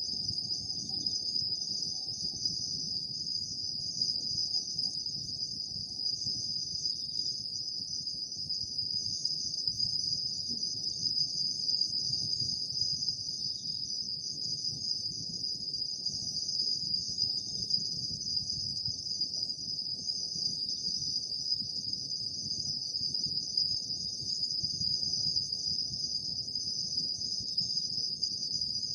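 Autumn night insects, crickets among them, chirring in a continuous high-pitched chorus over a faint low background rumble.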